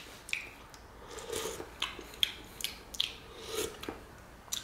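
A person chewing a soft, syrup-soaked fried dough ball, with wet mouth sounds and a string of short sharp clicks. Near the end a metal spoon scrapes a stainless steel tray.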